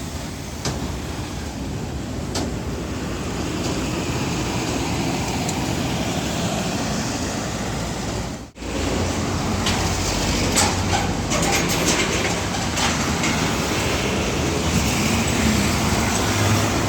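Steady road traffic noise from passing vehicles, with a brief dropout about halfway through.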